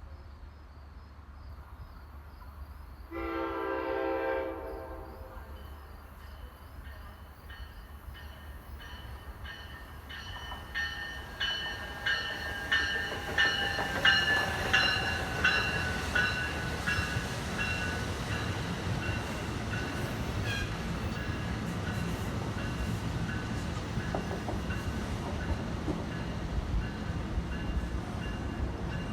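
A train horn sounds one blast of about two seconds, then a passenger train approaches and runs through, its wheels clicking rhythmically over the rail joints under a steady high whine, settling into a steady rumble as the cars pass.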